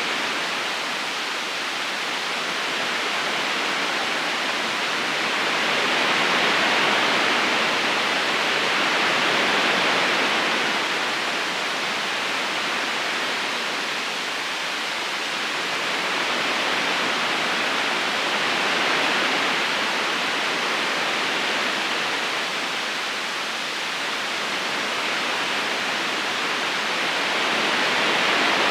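River current flowing, a steady rushing hiss of water that swells and eases slowly every several seconds.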